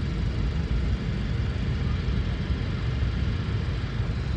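Jet airliner engines making a steady, noisy rumble.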